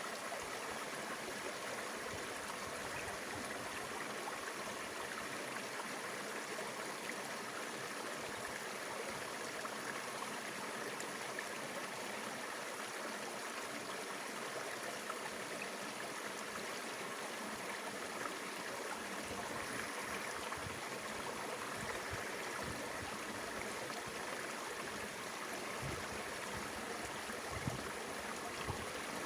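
Mountain river flowing steadily over rocks, a constant rush of water.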